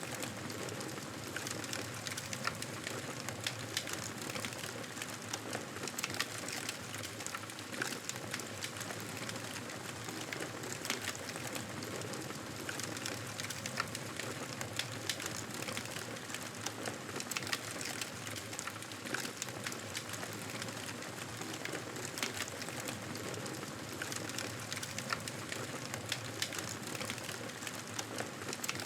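Wood fire burning with a steady hiss and frequent sharp crackles and pops at irregular intervals.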